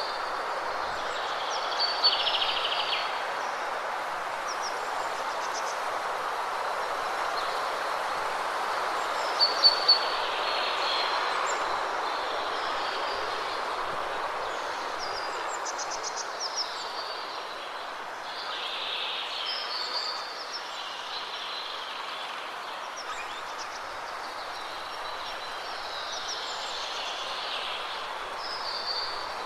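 Waterfall rushing steadily, with birds chirping and trilling over it every few seconds.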